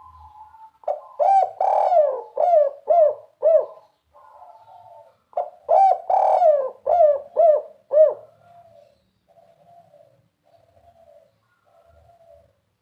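Spotted dove (tekukur) cooing: two phrases of about six rounded coos each, the second starting about four seconds after the first, with soft, broken low notes between and after the phrases.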